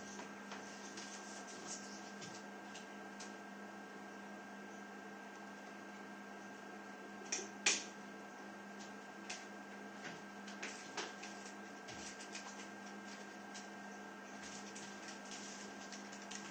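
Steady electrical hum from a running egg incubator, with scattered faint clicks and two louder clicks close together about seven and a half seconds in.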